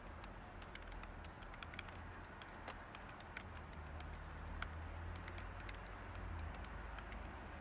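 Light typing on a computer keyboard: scattered, irregular key clicks over a faint steady hiss and low hum of background white noise.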